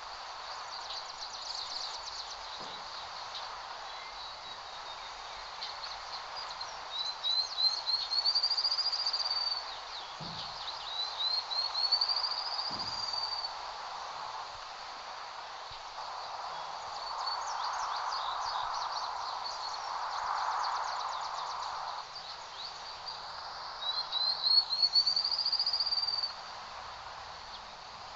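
A small bird singing, its phrase repeated three times: a quick run of short high notes that leads into a drawn-out rising-and-falling whistle. Under it is a steady hiss that swells for a few seconds past the middle.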